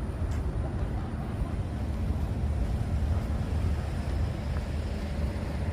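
Street traffic: a steady low rumble of vehicles, under an even hiss of rain.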